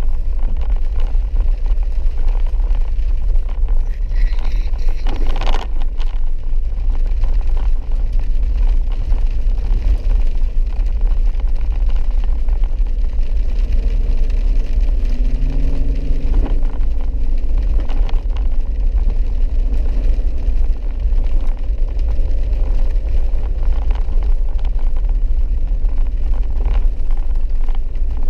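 A vehicle driving along a dirt mountain road: a steady low rumble of engine and tyres, with a brief knock about five seconds in.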